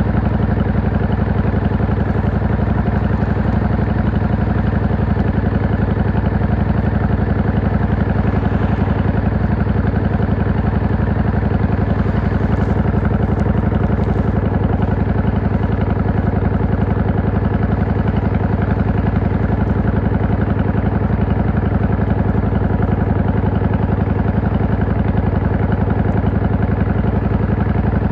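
V-twin cruiser motorcycle engine running at a steady, unchanging speed, with no revving.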